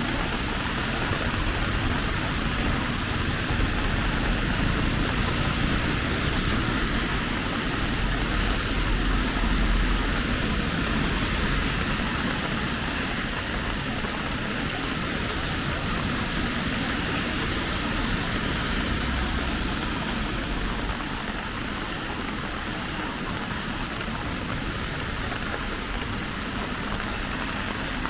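Steady rain falling, an even hiss, with a low rumble underneath that swells about eight to ten seconds in.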